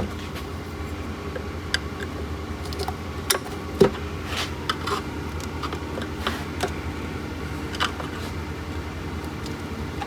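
Scattered small clicks and taps of a flathead screwdriver working around the seam of a plastic vent-fan blower housing to pry it apart, over a steady low hum.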